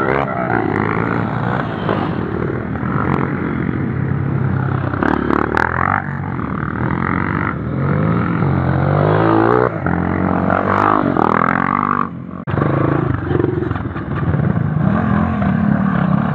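Off-road motorcycle engine running on a trail, revving up and down as the throttle opens and closes, its pitch stepping and gliding. The sound drops out briefly about twelve seconds in.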